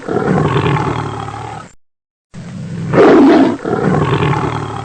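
Lion roaring. One roar trails off, and after a short pause the same roar starts again about two seconds in, loudest just after its start.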